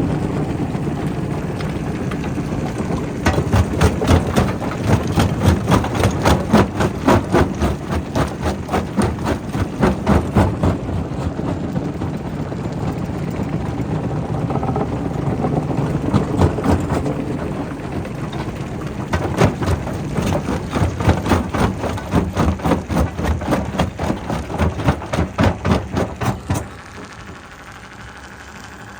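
Quarry rock crusher running: a steady heavy machine sound with two long spells of rapid, even knocking, about three to four a second, from about three seconds in and again from about nineteen seconds in. Near the end the knocking stops and the sound drops to a quieter steady hum.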